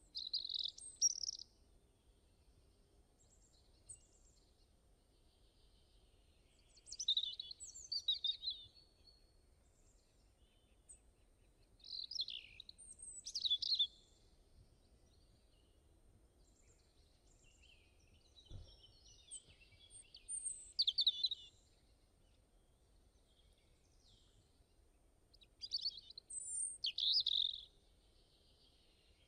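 A bird singing: five short, high chirping phrases, each lasting one to three seconds, spaced several seconds apart over a faint hiss.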